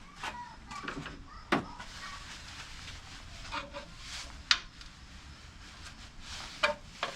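Tools and metal engine parts clinking and knocking during engine teardown: a handful of sharp knocks at irregular intervals, about a second and a half in, near the middle, and twice near the end.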